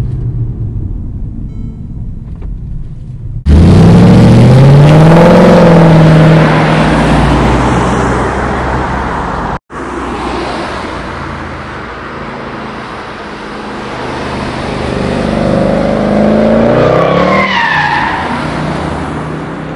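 Mercedes-Benz C63 AMG's 6.2-litre V8 engine running, then suddenly much louder about three and a half seconds in, revving with its pitch rising and falling. A split-second silent gap comes about halfway. Near the end the car revs up and goes past, its pitch dropping.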